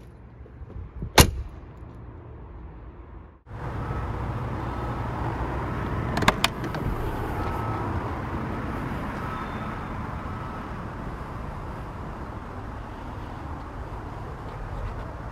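A sharp click about a second in. From about three and a half seconds there is a steady outdoor hum of traffic and wind. About six seconds in, a car door shuts with two quick knocks.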